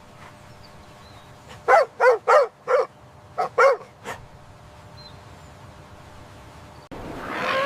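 A dog barking: a quick run of four barks, then two more and a faint last one. A different pitched sound begins just before the end.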